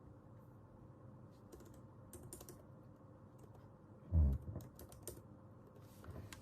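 Typing on a computer keyboard: scattered, irregular keystrokes. A single dull thump about four seconds in is the loudest sound.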